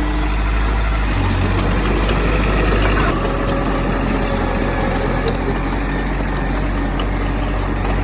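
Heavy diesel engine of earthmoving machinery running steadily, its low drone shifting a little about a second and again about three seconds in.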